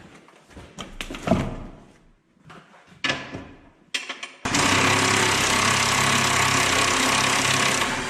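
Scattered clicks and knocks of parts and tools being handled, then about halfway through a power tool starts and runs loud and steady for about three and a half seconds.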